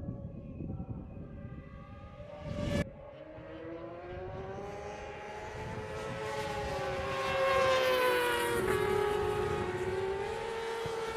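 Racing motorcycle engines running at high revs, with an abrupt change about three seconds in; the pitch then climbs and the sound swells to its loudest about seven or eight seconds in before holding high.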